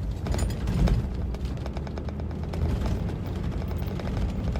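Cabin of a moving vehicle: a steady low road rumble with a rapid, irregular clatter of small hits and rattles against the body, a little louder just under a second in.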